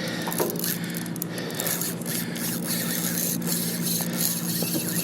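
Drag of a KastKing Sharky 6000 baitfeeder spinning reel peeling line steadily as a hooked bluefin tuna runs, over the steady hum of the boat's engine.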